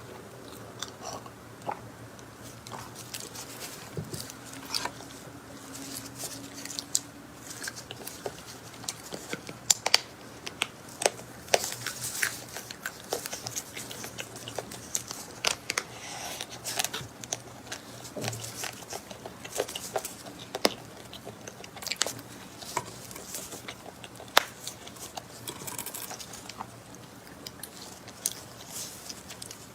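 A person eating, biting and chewing, with many small sharp clicks at an irregular pace.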